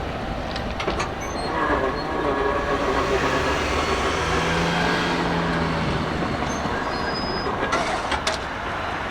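Train rolling past: a steady rumble of wheels on rail, with a few brief high squeals.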